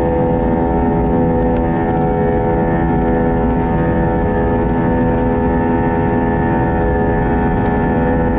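Airbus A320 jet engines running steadily: a whine of several held tones over a low rumble, with no change in pitch.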